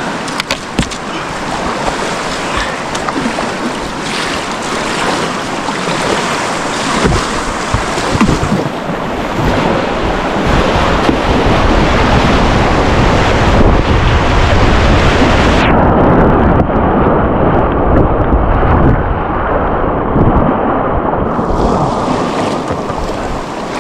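Ocean surf breaking and rushing, with heavy wind buffeting the microphone. The rush builds to its loudest around the middle, then turns muffled for several seconds before easing.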